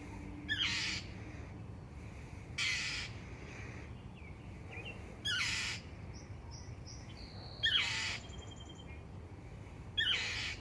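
A mother bird giving harsh, scolding alarm calls at a cat, five in all, about one every two and a half seconds.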